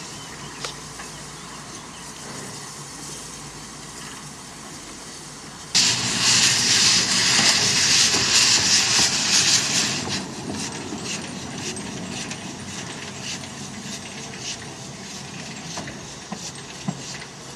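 Steam locomotive letting out a sudden loud hiss of steam about six seconds in, lasting about four seconds, then easing into a quieter, regular beat of about two to three a second.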